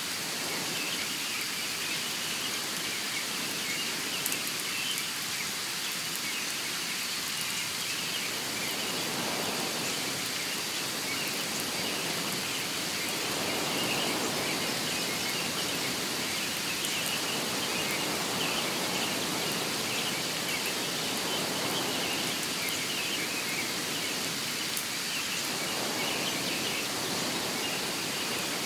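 Steady outdoor nature ambience: an even rain-like hiss with a thin, continuous high chirping running through it.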